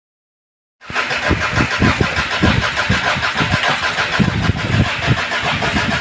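A Toyota Land Cruiser Prado's flood-damaged engine being cranked by its starter, with a rapid uneven chugging of low pulses; it cuts in abruptly just under a second in.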